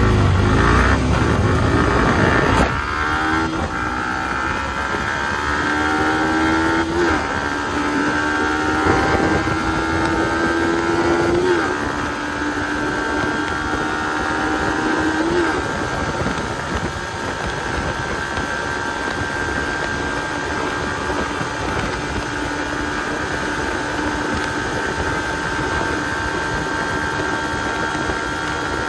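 Yamaha R15's 155 cc single-cylinder engine accelerating hard through the gears. The pitch climbs and drops sharply at each of four upshifts in the first half, then holds nearly steady in top gear.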